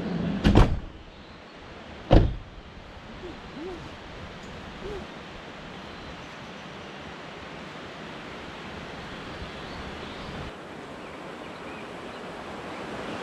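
Steady rushing noise of water along a creek trail, with two sharp knocks about half a second and two seconds in, like the microphone being bumped.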